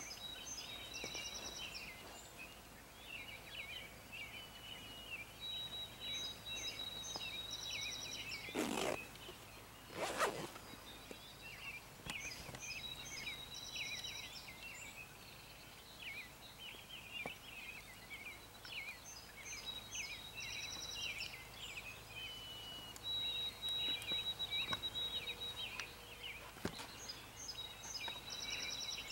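Birds singing in a rural field: a steady stream of short high chirps, with a song phrase of a held high note and a rapid trill repeating every several seconds. Two brief rustling noises stand out about nine and ten seconds in.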